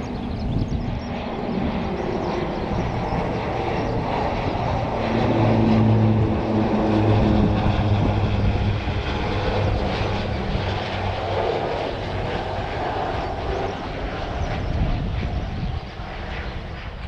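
Aircraft engine noise from a plane flying past. It swells to a peak about six seconds in and then fades, with a steady low hum through the middle.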